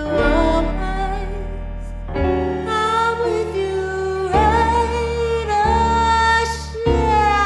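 Female vocalist holding long notes with vibrato over instrumental accompaniment, the chords underneath changing about every two and a half seconds.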